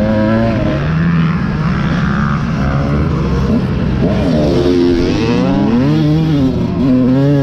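Dirt bike engine revving up and down repeatedly, its pitch rising and falling every second or so, as when riding a motocross track.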